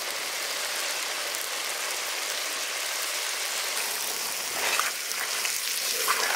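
Duck meat frying in hot oil with masala, a steady sizzling hiss.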